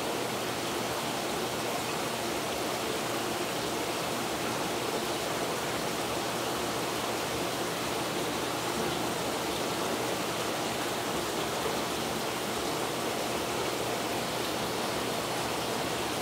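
Steady rushing of circulating water from a saltwater reef aquarium system, even and unbroken.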